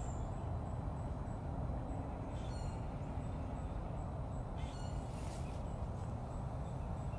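Steady low outdoor background noise with two short bird calls, about two seconds apart.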